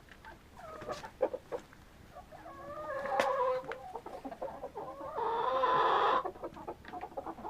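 A flock of chickens clucking and calling, with a louder drawn-out call lasting about a second, about five seconds in.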